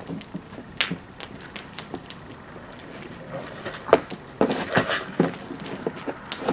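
A bonfire crackling and popping: irregular sharp cracks, with a cluster of louder pops about four to five seconds in.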